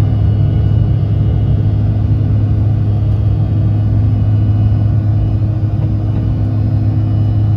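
Passenger aircraft engines running at takeoff/climb power: a steady deep rumble with a constant hum over it.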